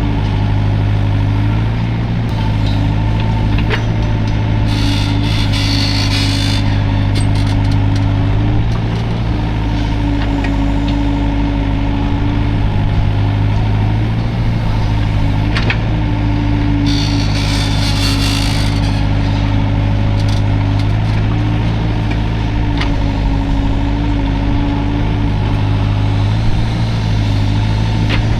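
Hydraulic excavator's diesel engine running steadily under working load, its drone swelling and easing as the machine works. Twice a brief high hiss cuts in, and a few sharp clicks or knocks sound.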